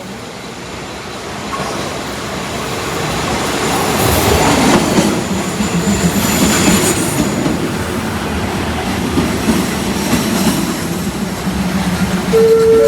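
A train running past a station platform close by, its rumble and wheel noise building over the first few seconds and then staying loud, with a faint high wheel squeal in the middle. Just before the end a station chime begins, a series of rising tones.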